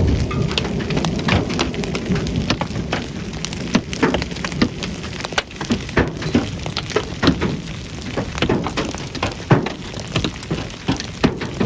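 Heavy rain pelting hard surfaces, a steady wash dense with many sharp, irregular hits.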